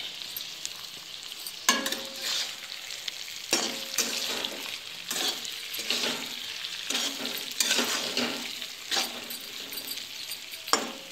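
Small stuffed eggplants and green coriander masala sizzling in oil in a metal kadai, with a spatula scraping and stirring them in repeated strokes about once a second.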